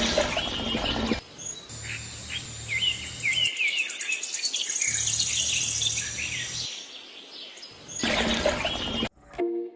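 Small birds chirping repeatedly, with a steady hum that switches on and off twice and two louder rushing noises, one near the start and one about eight seconds in. Music starts near the end.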